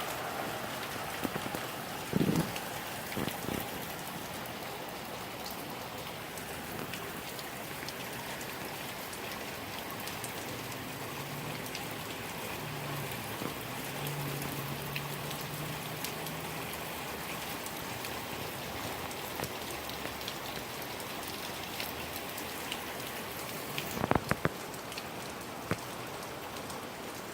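Heavy rain falling steadily during a squall line, with a few sharp knocks about two seconds in and again near the end.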